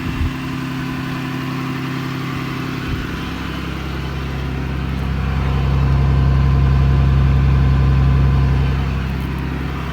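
Cummins turbo-diesel inline-six of a 2009 Dodge Ram 5500 idling steadily. It swells louder for a few seconds in the middle without any change in pitch, then eases back.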